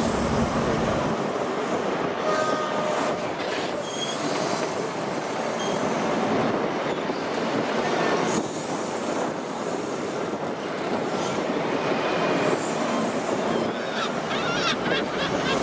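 Passenger coaches of a First Great Western HST rolling past at low speed. The wheels rumble and clatter on the rails, with brief high-pitched wheel squeals now and then, more of them near the end.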